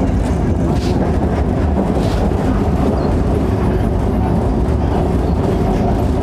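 Electric multiple-unit local train running, a steady loud noise strongest in the low range.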